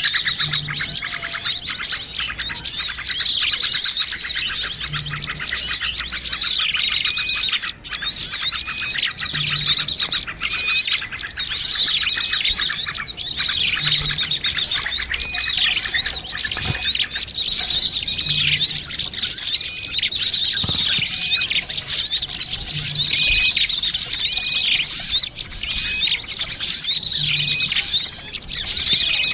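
Dense, busy chorus of many small songbirds chirping and twittering without pause, a bird-lure (pikat) recording meant to draw small birds in. A faint short low note recurs about every four and a half seconds.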